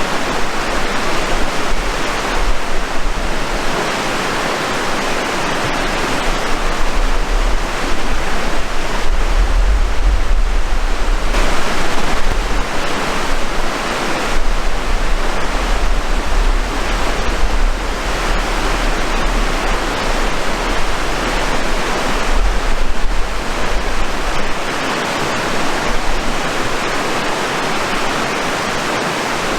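Rushing water: a steady, loud hiss that swells and eases every few seconds, with a low rumble that comes and goes.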